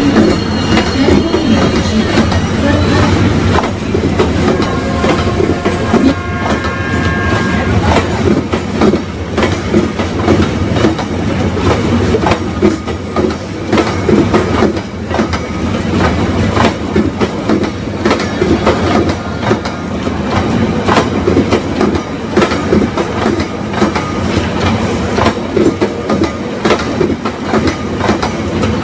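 Maharajas' Express passenger coaches rolling past at close range, wheels clacking steadily over the rail joints over a continuous rumble. Faint thin wheel squeals come in during the first several seconds.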